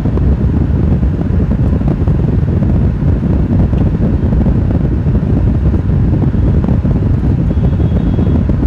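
Steady low rumble of a moving vehicle's road and wind noise, with wind buffeting the microphone.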